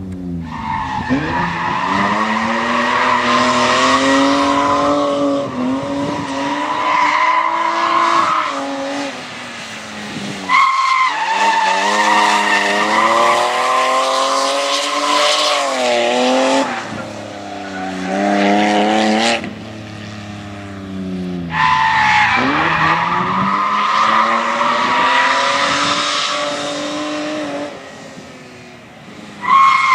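BMW E30 drifting: the engine revs up and down over and over while the tyres squeal through long slides, with a few brief lulls between them.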